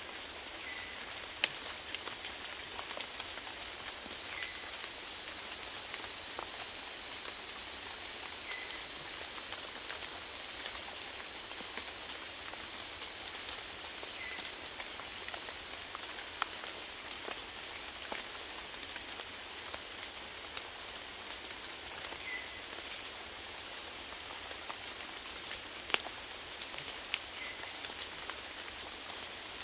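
Steady rainfall, an even hiss with individual drops pattering on surfaces and a few louder single drips.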